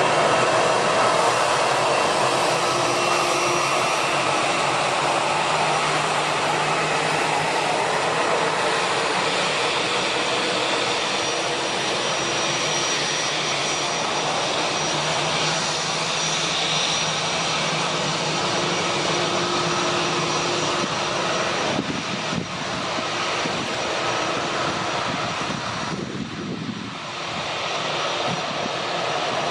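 Boeing 787-9 Dreamliner's jet engines running steadily: a loud, even rush with a high whine of several steady tones. It eases off briefly about three-quarters of the way through, then picks up again.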